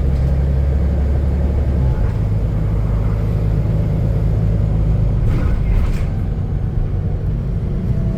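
Diesel engine and burst exhaust of a double-decker bus, heard from inside the passenger saloon. A loud, steady low drone gives way about two seconds in to a rougher low rumble as the engine note changes.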